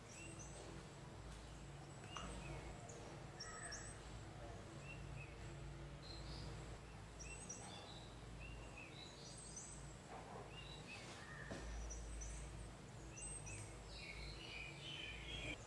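Quiet background with scattered short bird chirps coming every second or two, over a faint steady low hum.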